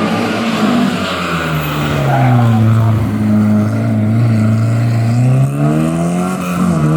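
Historic rally car's engine passing at stage speed: the revs drop about two seconds in, hold low for a few seconds, then climb again near the end as it accelerates.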